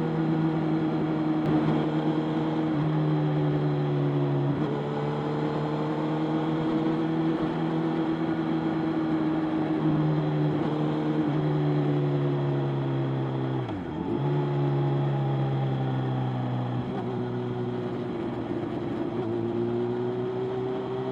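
Motorcycle engine running under way at a fairly steady pitch, over a rush of wind and road noise. The pitch drops about four and a half seconds in, then dips sharply and climbs back about fourteen seconds in, as the rider eases off and changes gear.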